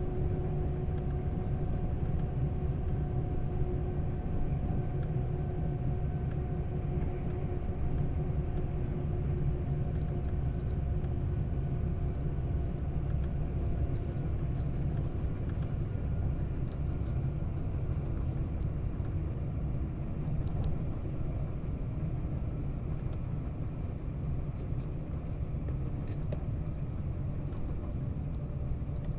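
Queensland Tilt Train running at speed, heard from inside the carriage: a steady low rumble of the wheels on the track. Faint steady whining tones sit above it and fade about halfway through.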